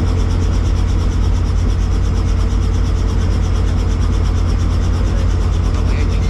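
Helicopter turbine engine and rotor noise: a steady, heavy low drone with a fast, even pulse running through it.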